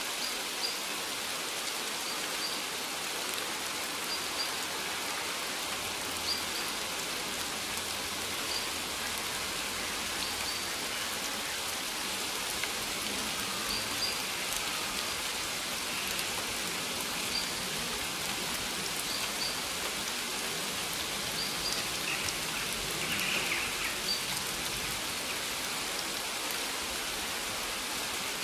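Steady rain falling on maize plants, an even patter of drops on the leaves. A faint short high chirp repeats about every two seconds throughout.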